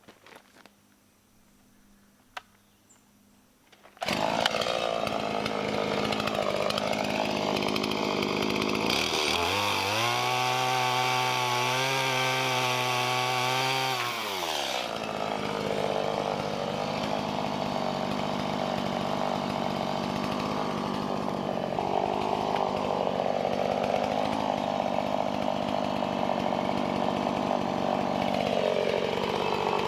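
Chainsaw engine running at high revs, starting abruptly about four seconds in after a few quiet seconds with faint clicks. Its pitch drops for about five seconds in the middle as the saw works under load in wood, then rises again.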